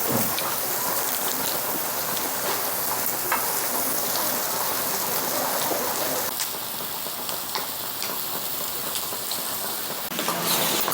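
Steady rain pattering and hissing, with scattered sharp crackles.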